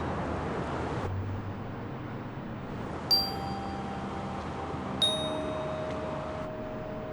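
Two bell-like chime notes, struck about two seconds apart, each ringing on, over a steady background hiss that thins out about a second in.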